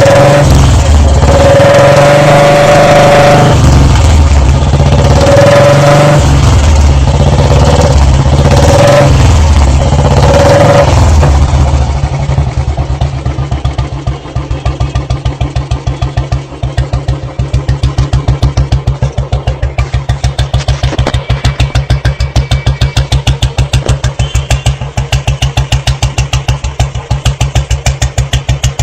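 Royal Enfield Bullet 350 single-cylinder engine breathing through an aftermarket free-flow silencer, blipped and revved repeatedly for about the first eleven seconds. It then drops to an idle with an evenly spaced, pulsing exhaust beat.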